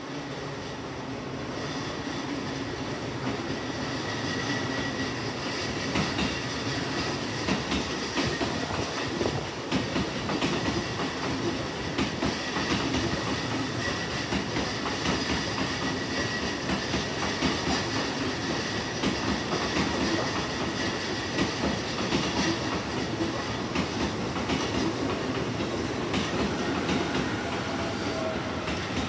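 JR East E233/E231-series electric commuter train approaching and rolling past along the platform, its wheels clattering over the rail joints. It grows louder over the first few seconds, and near the end a whine rises and falls in pitch.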